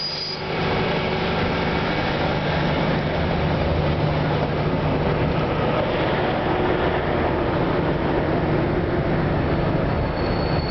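Diesel engine of a Plan U diesel-electric multiple unit running steadily with a low hum, with a faint high whine near the end.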